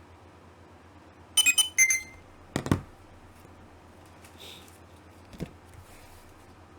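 Short ringing, chime-like tones in two quick clusters, followed by a single dull thump.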